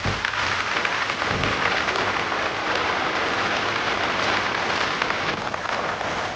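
Steady hiss of rushing water, even and unbroken, with little low rumble beneath it.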